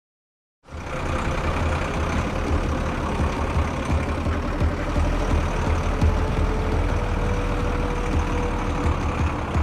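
A heavy vehicle engine running steadily with a deep rumble, cutting in suddenly after a moment of silence.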